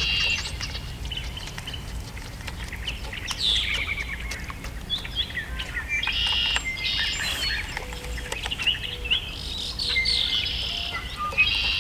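Several songbirds calling and singing, with repeated high-pitched phrases, chirps and short whistles overlapping throughout, over a steady low rumble.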